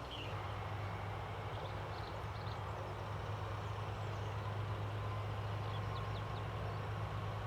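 Airbus A330-223 jet engines at takeoff power during the takeoff roll: a steady low rumble with an even hiss above it.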